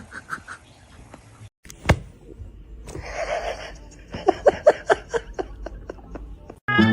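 A person laughing in a quick run of short bursts in the second half, after a brief hiss and a sharp click.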